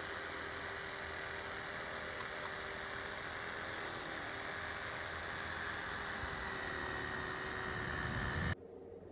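An electric power tool's motor running steadily, growing a little louder, then stopping abruptly near the end.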